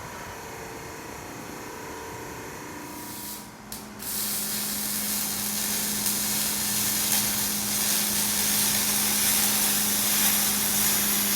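A shop tool at work in an exhaust shop: a loud, steady hiss with a low steady hum under it starts about four seconds in, after a quieter stretch of low shop hum.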